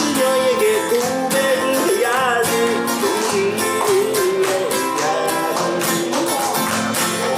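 Acoustic guitar strummed with a wavering melody line over the chords: an instrumental passage of a pop song.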